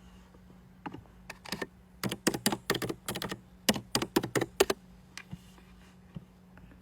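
Typing: a few scattered key taps, then a quick run of taps lasting about three seconds, which stops with a couple of last taps.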